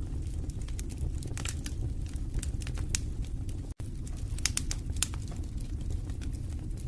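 Wood fire crackling in a fireplace: irregular sharp pops and snaps over a steady low rumble of the flames, with a momentary dropout a little past halfway.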